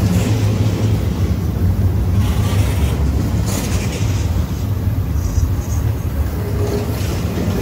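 Freight train running past with a steady low rumble, with a couple of brief higher rattles a few seconds in.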